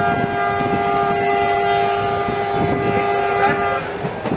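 Diesel locomotive horn sounding one long chord that cuts off sharply near the end, over the rumble of the moving train.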